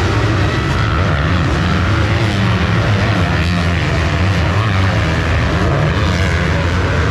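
Engines of 250cc motocross race bikes running on the track, a steady loud drone whose pitch wavers up and down as riders rev and shift.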